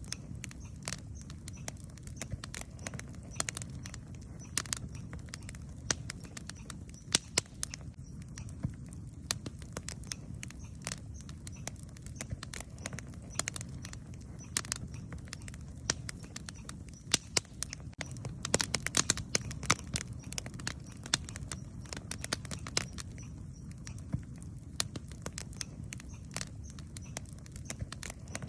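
Wood campfire crackling, with irregular sharp pops and snaps that come thickest about two-thirds of the way through, over a steady low rumble.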